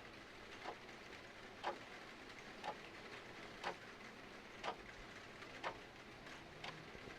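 Clock ticking once a second over a steady hiss of rain.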